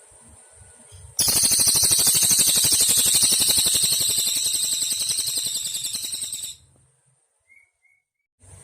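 Cililin bird singing one long, loud, rapid high trill that starts suddenly about a second in, eases slightly over about five seconds, then cuts off abruptly, followed by a brief pause with one tiny chirp.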